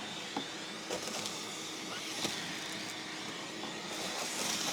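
Vacuum running steadily as it sucks debris out of the excavator, with scattered sharp clicks of bits rattling up the hose.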